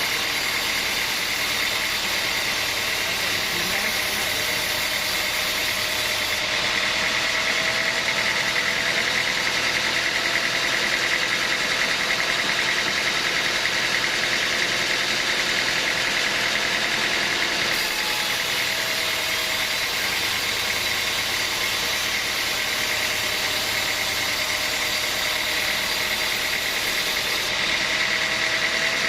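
Sawmill machinery running steadily: a constant mechanical drone with a steady high whine.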